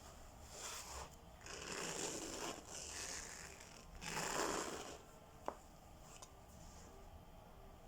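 Diamond-painting handling noises: rustling, scraping swishes of plastic and paper, the loudest about four seconds in, then one sharp click about five and a half seconds in.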